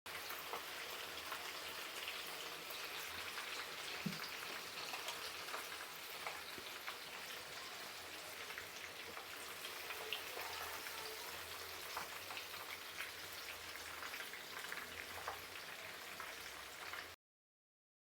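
Breaded chicken cheese balls frying in hot oil: a steady sizzle full of small crackles and pops, which cuts off suddenly near the end.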